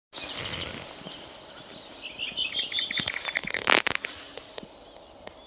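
Small songbird singing a quick trill of repeated notes that falls in pitch, over steady outdoor background hiss, with a brief loud rustle just before the fourth second and a short high chirp after it.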